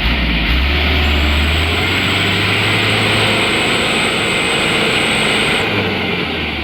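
Mitsubishi Canter light truck's diesel engine running hard and steady while the truck labours on an uphill where it has got stuck, with a thin high whine from about a second in until near the end.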